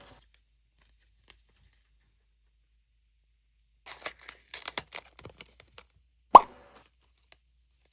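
Plastic packaging crinkling and tearing for about two seconds, followed by a single loud plop about six and a half seconds in.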